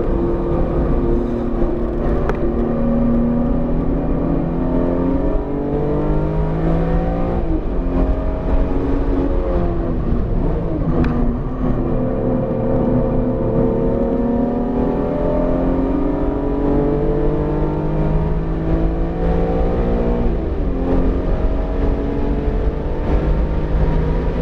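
BMW E46 M3's straight-six engine pulling hard at track speed, its pitch climbing and falling repeatedly as it accelerates, shifts and slows, over steady road and wind noise. The engine is newly built and still being broken in, with revs held below 7,000 rpm.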